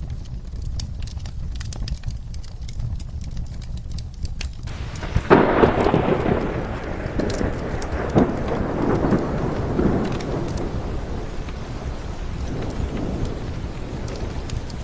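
Steady rain with a thunderclap breaking suddenly about five seconds in and rolling away over several seconds, over a low constant rumble and scattered sharp crackles.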